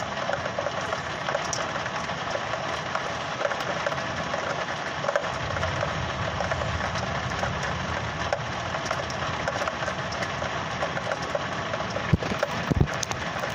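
Steady hiss and crackle of heavy rain, with a low rumble thickening from about five seconds in and a few sharp knocks near the end.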